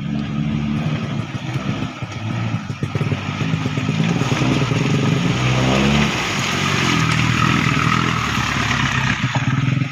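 Motor vehicle engine running and revving under load, with a loud hiss of noise that builds from about three seconds in.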